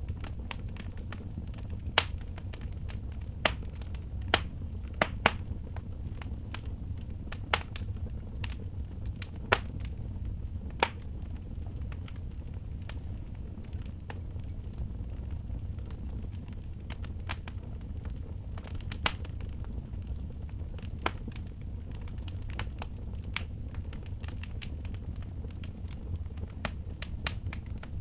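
Wood fire in a fireplace crackling, with irregular sharp pops and snaps, a few of them loud, over a steady low rumble.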